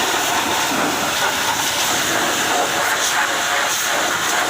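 High-pressure water jet spraying steadily against a truck, a continuous loud hiss.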